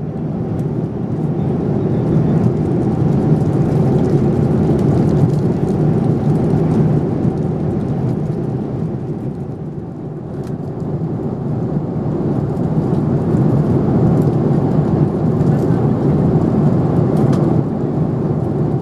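Cabin noise inside a Boeing 787-9 Dreamliner: a steady rumble from its Rolls-Royce Trent 1000 engines and the rushing air, heard from a window seat. It swells about two seconds in, eases a little midway, then rises again.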